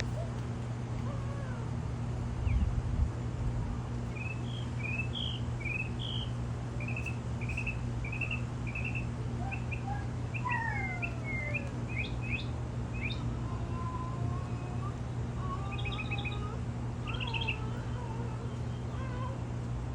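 Small birds chirping: a long run of short, high chirps, about two a second, with some quicker trills near the end. A steady low hum runs underneath, and there is a brief low thump about three seconds in.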